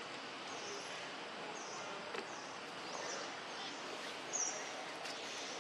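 Steady outdoor background hiss with a bird chirping: a series of short high chirps, the loudest about four and a half seconds in.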